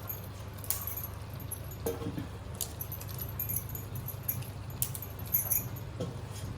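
Light metallic clinks and clatter of kitchen utensils and steel cookware, a few sharp clinks spread through, over a steady low hum.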